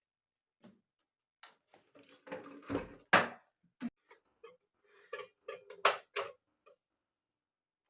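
Kitchen clatter: a series of knocks and clinks of dishes and utensils being handled, the loudest about three seconds in and again near six seconds.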